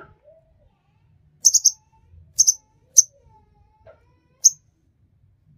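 A kolibri ninja sunbird calling with short, sharp, high chirps, four or five spaced about a second apart, the first ones doubled.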